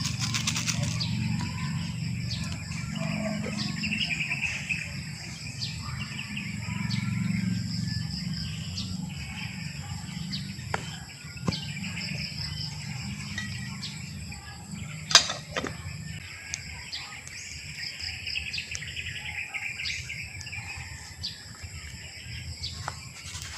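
Wild birds chirping and calling on and off, over a steady low rumble that fades out about two-thirds of the way through and a steady high whine. One sharp click about fifteen seconds in is the loudest sound.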